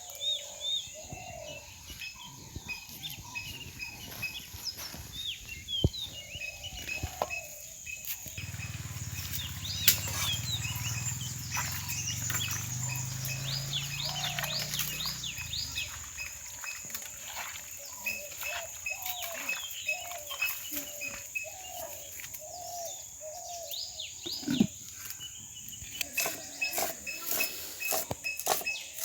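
Small birds chirping over and over, with a steady high whine behind them. A low hum comes in about a third of the way through and fades out near the middle.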